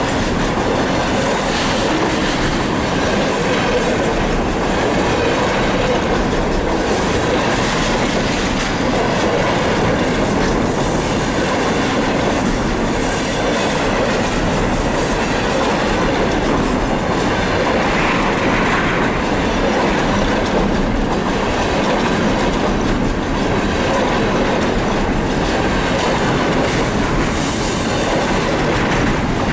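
Container flatcars of a freight train rolling past at close range: a steady, loud noise of steel wheels running on the rails.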